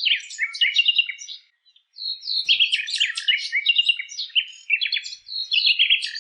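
A common nightingale singing in rich, varied phrases of quick repeated notes, whistles and rapid trills, with a brief pause about one and a half seconds in.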